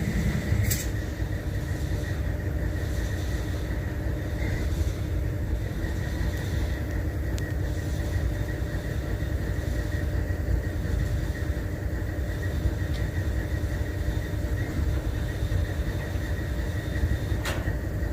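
Diesel freight locomotive idling: a steady low rumble with a constant hum. A sharp click sounds near the start and again near the end.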